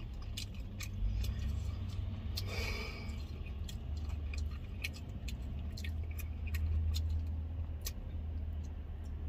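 Close-miked chewing and lip-smacking on a crispy chicken wing: a string of sharp, irregular mouth clicks, over a steady low hum.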